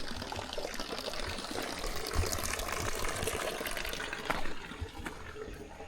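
Running water, a steady splashing rush that grows fainter near the end, with low thumps on the microphone.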